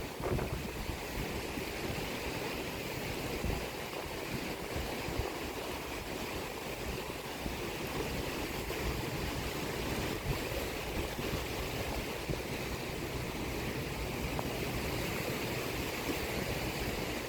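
Sea surf washing steadily along the shore, a continuous rushing hiss, with a low rumble of wind on the microphone underneath.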